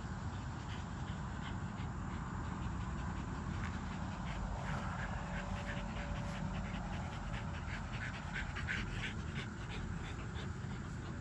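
American Bully puppy panting in quick, rhythmic breaths, about four or five a second and clearest in the second half, over a steady low rumble.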